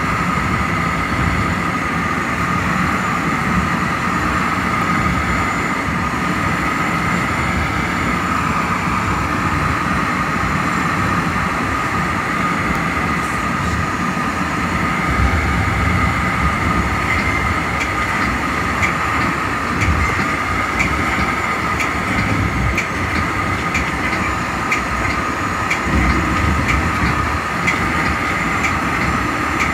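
Metra commuter train running at speed, heard from inside the leading cab car: a steady rumble of wheels on rail with a constant high-pitched whine. Light clicks from the track join in about halfway through.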